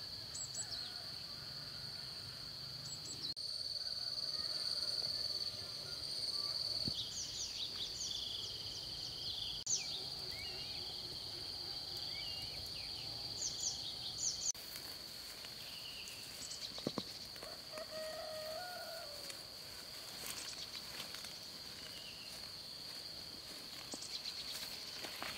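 Forest ambience: a steady high-pitched insect drone with scattered short bird chirps and a few faint knocks.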